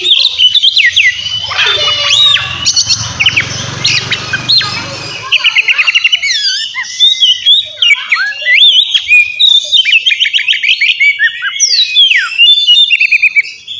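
Oriental magpie-robin (kacer) singing loudly and without a break. The song is a varied run of sharp whistles and sliding notes, broken by several fast trills of rapidly repeated notes.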